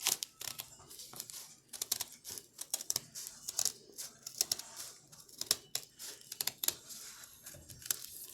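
Scissors snipping repeatedly in quick, irregular cuts, with light crinkling of the material being cut.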